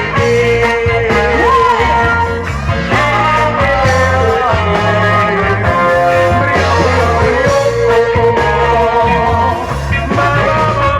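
Live band playing an instrumental stretch of a song, with guitar lines over a steady bass pattern.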